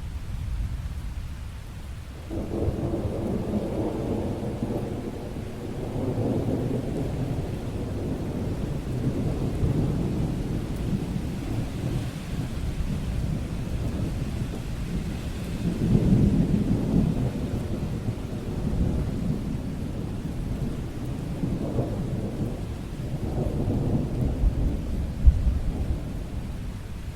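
Rolling thunder over steady rain. The low rumble starts about two seconds in, then swells again about midway and once more near the end.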